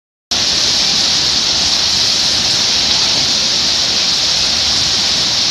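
Waterfall rushing: a loud, steady wash of falling water, brightest in its hiss.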